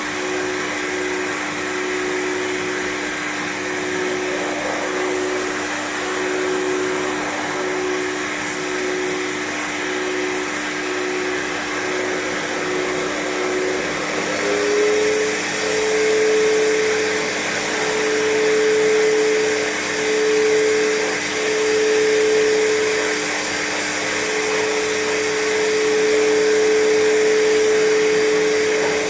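Pet hair dryer blowing a steady stream of air onto a cat's fur, its motor whine stepping up in pitch about halfway through; the air noise then swells and dips.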